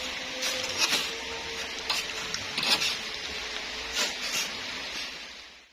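Sand being shovelled by hand: irregular scraping strokes over a steady hiss, stopping abruptly near the end.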